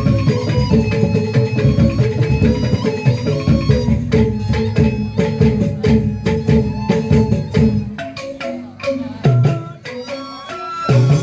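Traditional Balinese-style music: held pitched instrument notes over busy hand-drum playing. About eight seconds in the drumming thins out to a few separate strokes.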